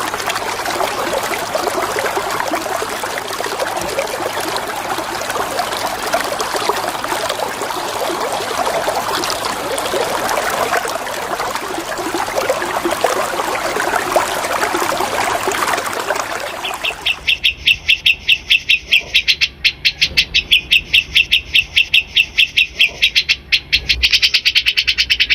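Steady rush of flowing water that stops abruptly about two-thirds of the way through, followed by a bulbul's rapid, evenly spaced series of sharp high notes.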